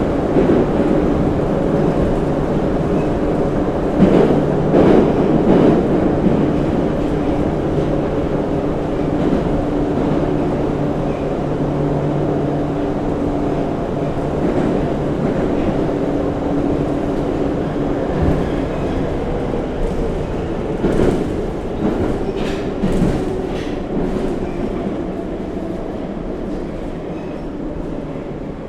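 81-717/714 'Nomernoy' Moscow Metro train running through a tunnel, heard from inside the car: a steady rumble of wheels and running gear with a hum that drops out about halfway. Clickety-clack of rail joints comes in short clusters, and the noise slowly eases off near the end.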